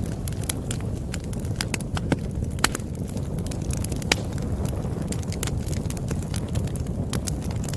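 Campfire crackling: irregular sharp pops and snaps over a steady low rumble from the burning wood.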